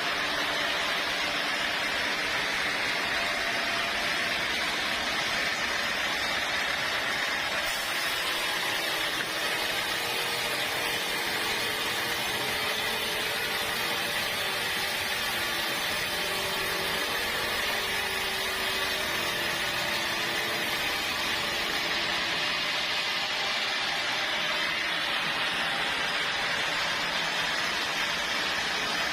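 Sawmill saw cutting through a teak log, a steady, unbroken hissing whine.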